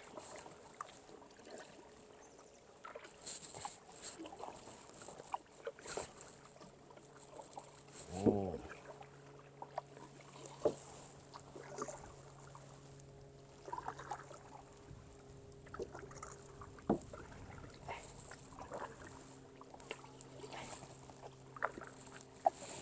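Kayak paddle strokes dipping into calm water with soft splashes and drips, quiet and intermittent. A brief call sounds about eight seconds in, and a faint steady hum comes in at about the same time.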